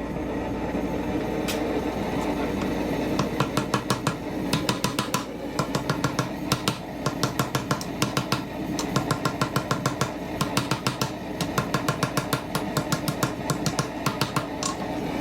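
Forging hammer blows on a hot damascus billet, struck several times a second in runs with short pauses, starting about three seconds in. A steady running roar sits underneath throughout.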